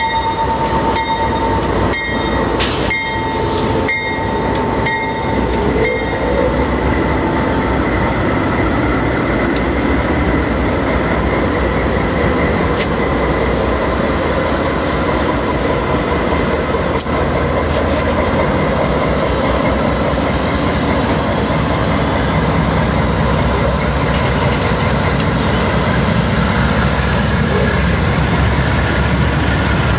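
A long freight train pulling away behind two GE diesel locomotives, a C44-9W and a C40-8M, their engines working under power while steel wheels roll and rattle over the rails as the cars pass. For the first six seconds or so, sharp clanks come about once a second over a steady ringing tone.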